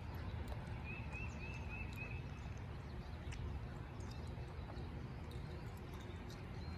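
Outdoor spring ambience: a steady low rumble with a bird giving a quick run of short chirps about a second in, and scattered faint clicks.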